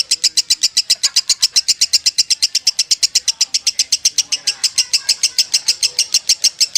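Lovebird singing a 'konslet' song: an unbroken, very fast chatter of high notes, about nine a second, running on without a pause.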